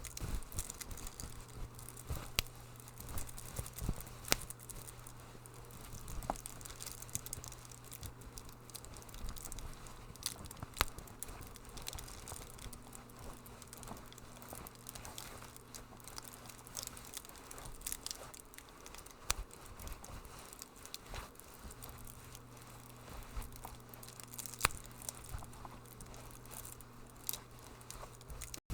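Wood fire crackling in a fireplace: irregular snaps and pops scattered throughout, over a faint steady low hum.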